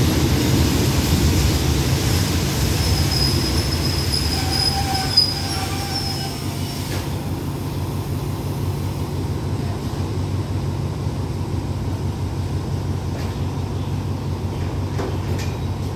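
Passenger train coaches rolling slowly into a station and braking to a stop, with a high squeal and a clunk about five seconds in. After that only a steady low rumble remains as the train stands.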